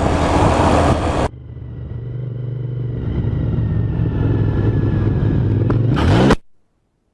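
Motorcycle riding with wind noise, cut off abruptly about a second in, then a steady engine note that grows gradually louder and rises in pitch near the end, ending in a short loud rush and a sudden cut to silence.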